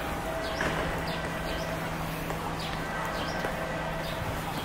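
Small birds chirping: short calls that slide downward, about two a second, over a steady low hum.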